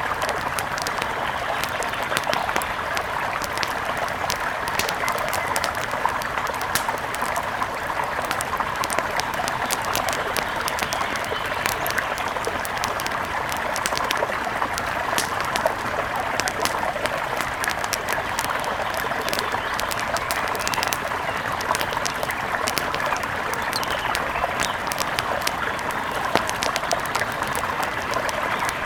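Steady rushing of a mountain river, with many small, sharp crackles scattered over it from a campfire.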